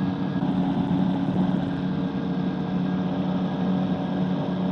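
Microlight trike engine and propeller droning steadily at cruise power, a constant even hum over a rushing noise.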